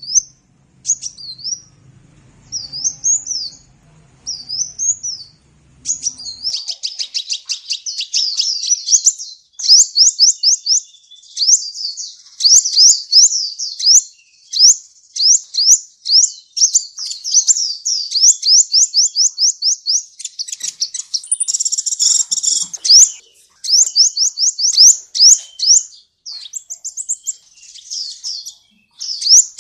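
Sunbird song, the bird Indonesian keepers call kolibri: high, thin chirps, spaced out at first, then from about six seconds a fast, unbroken run of sharp up-and-down notes, with a brief buzzy stretch about three quarters of the way through.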